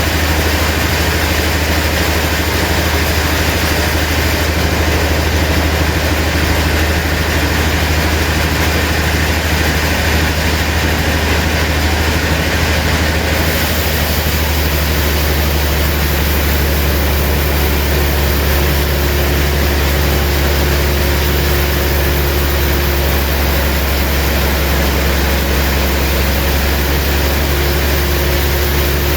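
Sawmill machinery running steadily: a heavy engine's low drone under a constant wash of mechanical noise. A faint steady tone joins in about two thirds of the way through.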